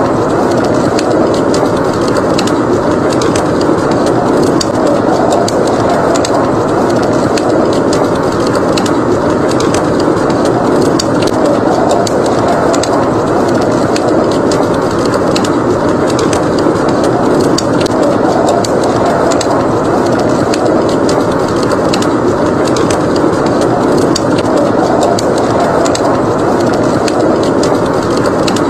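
Wood fire in a fireplace crackling, with many small pops scattered throughout, over a steady rushing noise of blizzard wind.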